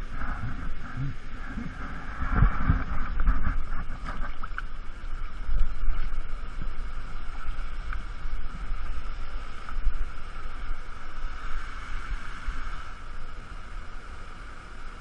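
Waterfall water rushing and churning around a swimmer, with splashing that is heaviest in the first few seconds and eases after. The current is strong enough to sweep the swimmer along.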